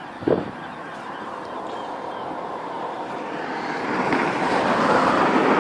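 A vehicle passing close by, its noise building steadily over the last couple of seconds and loudest near the end. A brief knock sounds just after the start.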